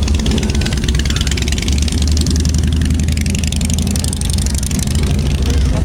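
A car engine running at idle, loud and close, with a steady pulsing exhaust note.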